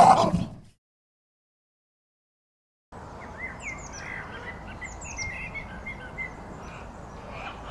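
Small birds chirping and twittering, with short high notes sweeping down, over a steady outdoor background hiss. It starts after a loud sound cuts off in the first second and about two seconds of dead silence.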